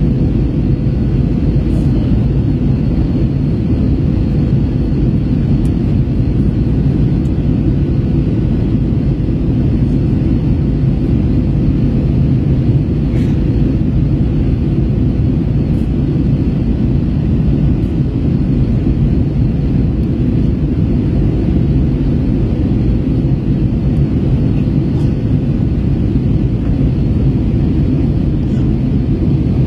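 Steady in-flight cabin drone of an Airbus A321 airliner: engine and airflow noise, even and unbroken, with a faint steady tone running through it.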